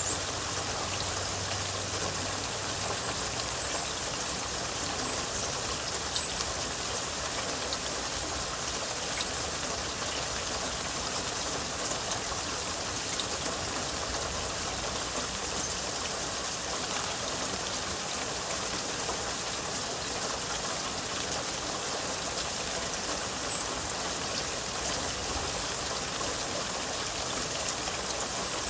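Steady rain falling, an even hiss of water that holds at one level throughout.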